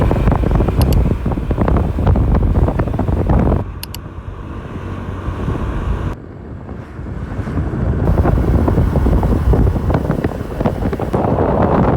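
Heavy wind buffeting the microphone over the running noise of a vehicle on the move. The noise drops sharply about three and a half seconds in and again about six seconds in, then builds back up.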